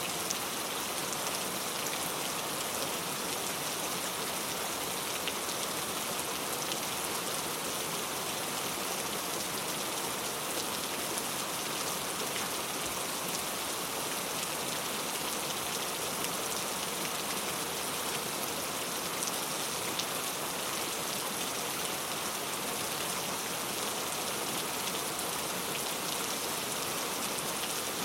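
Steady rain falling without a break: an even hiss with fine, scattered drop ticks and no thunder.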